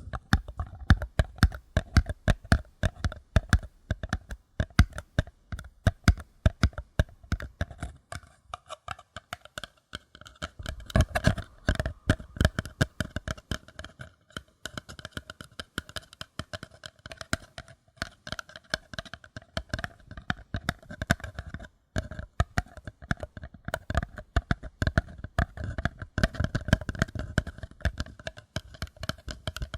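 Paper cups being tapped rapidly and gently by fingers, many light taps a second in a continuous stream, with a hollow ring that stays at the same pitch.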